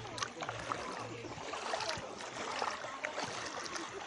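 Shallow water splashing and lapping at the edge, with many small irregular splashes, as someone wades in with bare feet.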